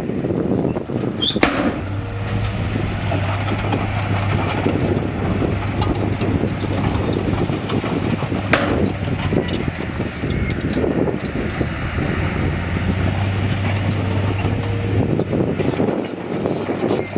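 Heavy diesel earthmoving machinery running under load, a steady engine drone with a low hum through most of it, and two sharp knocks, one about a second and a half in and one about eight and a half seconds in.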